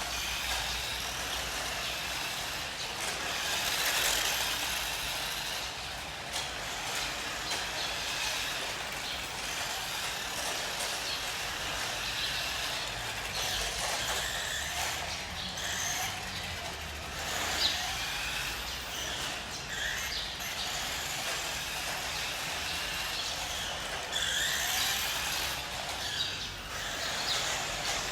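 Tokyo Marui 1:5 scale RC motorcycle running, its small motor speeding up and slowing in a few short glides over a steady outdoor hiss.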